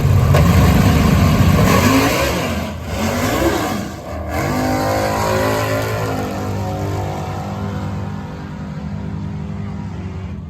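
Big-turbo drag car's engine revving, its pitch rising and falling sharply over the first few seconds, then settling into a steadier note that gradually fades.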